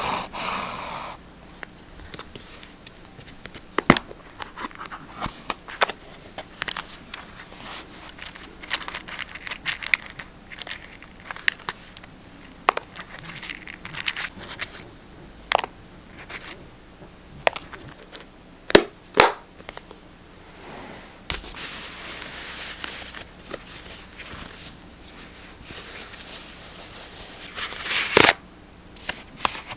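Paper being handled for journal decorating: rustling and crinkling, with many scattered sharp clicks and taps. In the last third there is a longer stretch of steady rustling and rubbing, and a louder rustle near the end.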